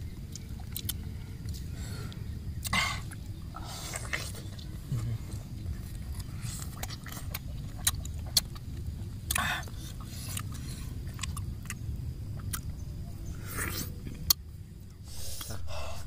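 People biting and chewing pieces of santol fruit, with short wet crunches and mouth sounds every few seconds over a steady low rumble.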